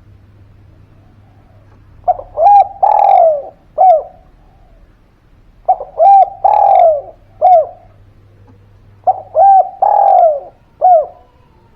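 Spotted dove (derkuku/tekukur) cooing: three song phrases about three and a half seconds apart, each two quick short coos, a longer coo falling in pitch, and a final short coo.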